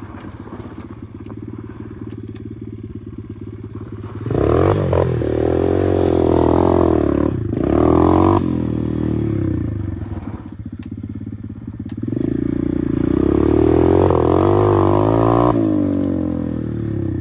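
125cc pit bike engine running at low revs, then revving up hard about four seconds in with a brief drop in pitch partway through as it shifts, easing back, and revving up again about twelve seconds in before settling.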